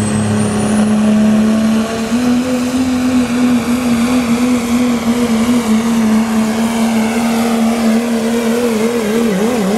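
Turbocharged diesel pickup truck engine at full throttle pulling the sled, a loud steady drone. Near the end its pitch wobbles rapidly up and down.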